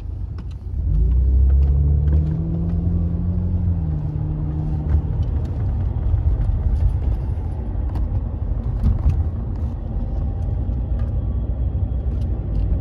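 BMW car's engine pulling away, heard from inside the cabin: the engine note rises in pitch about a second in and then holds steady, over a constant low road rumble.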